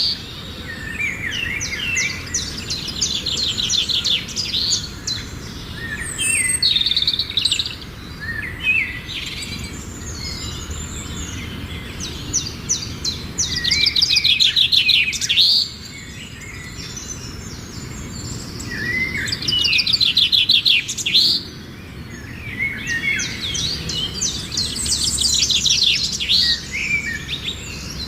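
A songbird singing in repeated phrases of fast trills and chirps, each phrase a couple of seconds long with short pauses between, over a low, steady background rumble.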